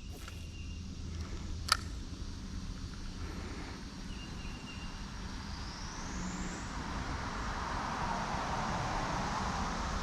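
Faint outdoor background noise: a steady low rumble with a rushing hiss that swells over the last few seconds, and one sharp click about two seconds in.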